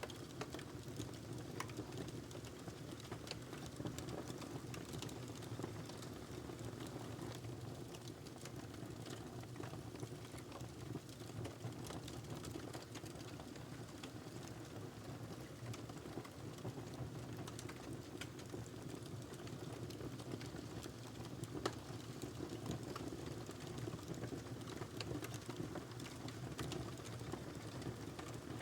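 Wood fire crackling in a fireplace: a steady low hiss of burning with frequent small irregular crackles and snaps, and one sharper pop a little after the twentieth second.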